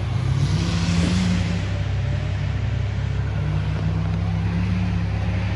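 Off-road 4x4's engine running steadily under load, with a burst of hiss about a second in.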